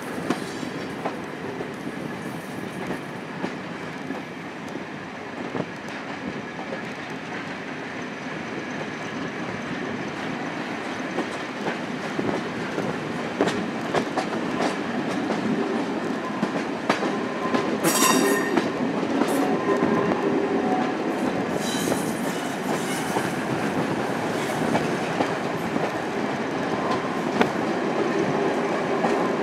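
Train running on jointed track heard from an open coach window, wheels clattering and the noise growing steadily louder as it picks up speed. A brief high wheel squeal cuts through about two-thirds of the way in, with a shorter one a few seconds later, as the coaches take a curve.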